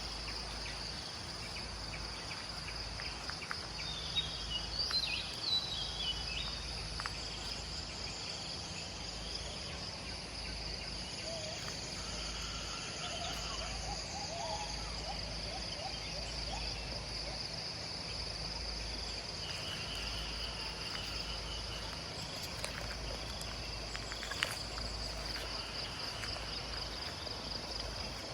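Tropical forest ambience: a steady, high-pitched pulsing chorus of insects, with a few short bird chirps about four to six seconds in and another faint call near the middle.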